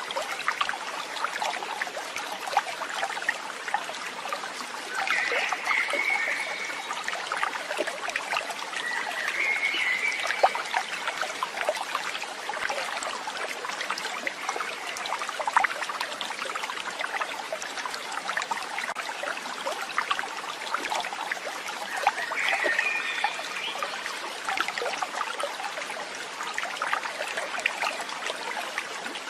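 Water trickling and babbling steadily, like a small stream, with three short high chirps over it.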